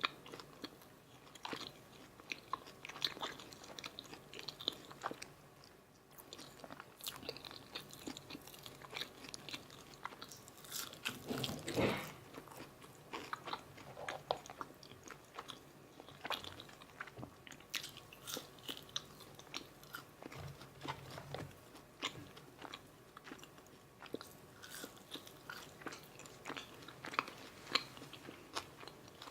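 Close-miked eating of a McDonald's Filet-O-Fish meal: repeated bites and chewing with crisp crunches and wet mouth sounds, with one louder burst about twelve seconds in.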